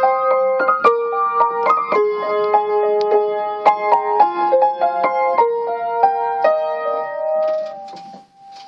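Solo piano playing a slow melody of single notes over chords, the closing phrase of a song. The playing stops about seven seconds in, leaving one high note ringing and fading away.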